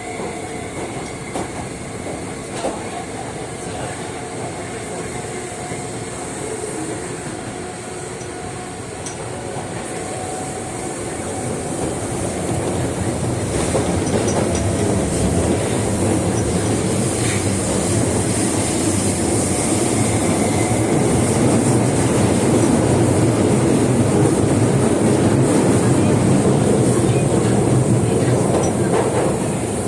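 Osaka Metro 22 series subway train with GTO-VVVF inverter, heard from inside the car as it runs through the tunnel between stations: wheel and rail running noise, with faint steady tones early on. The noise grows louder about twelve seconds in and stays loud.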